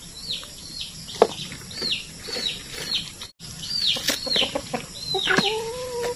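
Chickens in a yard: repeated high peeping chirps, about two a second, with a longer held chicken call that rises slightly near the end. A few sharp clicks of a knife cutting green onion leaves.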